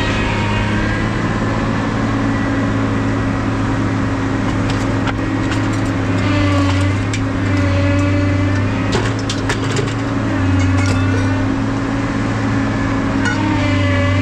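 An engine running steadily with a low drone. Fainter whines rise and fall in pitch now and then, and a few sharp clicks come in the middle.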